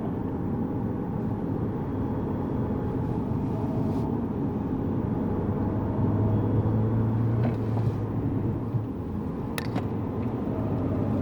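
Lexus GS200t's 2.0-litre turbocharged four-cylinder engine running on a race circuit, heard from inside the cabin together with steady tyre and road noise. A low engine hum grows stronger about six seconds in.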